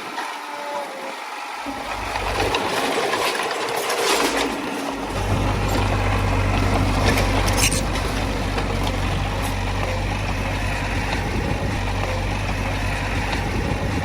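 Heavy diesel earthmoving machinery running, with a low steady engine drone that comes in strongly about five seconds in. A few sharp clanks stand out over the machine noise.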